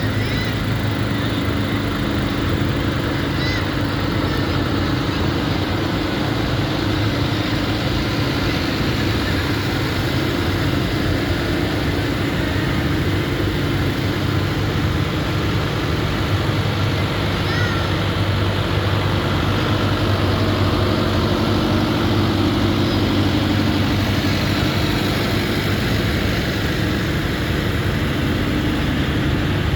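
Tractor engines running steadily at low speed, with a constant low drone.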